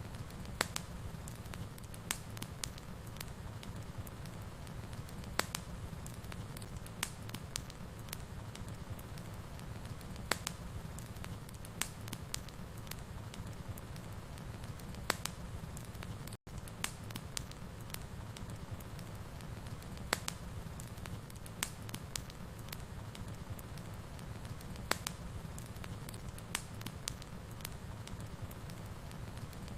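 Wood fire burning in a fireplace: a steady low rumble with sharp crackles and pops scattered throughout. The sound drops out for an instant about halfway through.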